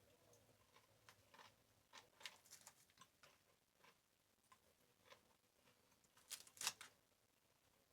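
Scattered light clicks and scrapes of small objects being handled in a quiet small room, with a louder scrape-and-click pair about six and a half seconds in.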